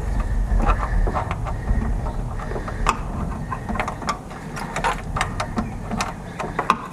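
Hand tools working a timing cover bolt: a run of irregular, sharp metal clicks of a ratchet wrench and tools knocking on the engine, over a steady low hum.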